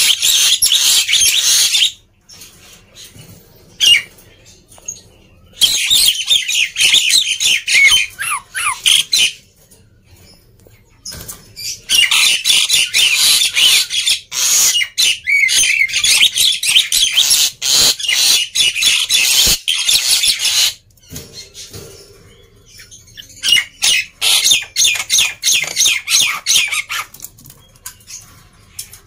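Black-winged myna (jalak putih) in full song, giving loud, harsh, rapid chattering. It comes in four long bursts, the longest about nine seconds, with pauses of a few seconds between them.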